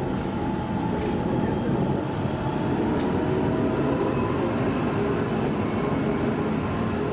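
Electric street tram running on its rails: a steady rolling noise with a faint whine that rises slightly, and a couple of light clicks from the wheels on the track.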